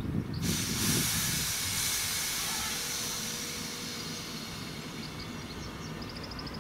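Train with a sudden sharp hiss of air about half a second in, which slowly fades, while a low rumble dies away.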